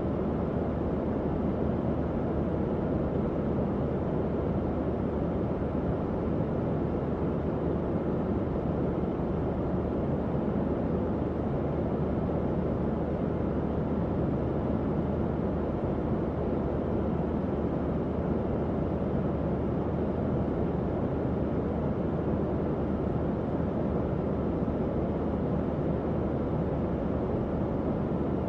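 Tower fan running steadily: an even, low whooshing rush of air with a faint motor hum underneath.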